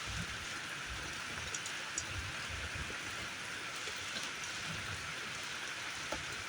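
Heavy rain falling steadily: a dense, even hiss with scattered louder individual drops.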